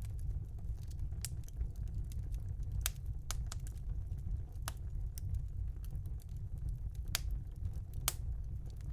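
Fire burning in a home fireplace: a steady low rumble with irregular sharp crackles and pops, the loudest pop near the end.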